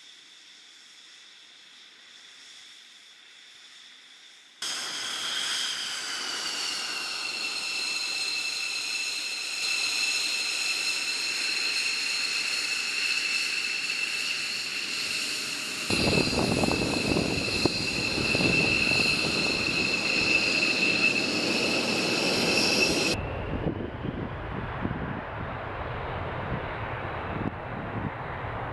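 F-16 fighter jet engine in several edited shots: a quiet opening, then a sudden cut about five seconds in to a high, steady turbine whine that dips slightly in pitch and then holds. About 16 seconds in, a loud deep rumble joins the whine. Around 23 seconds the whine cuts out and the rumble carries on.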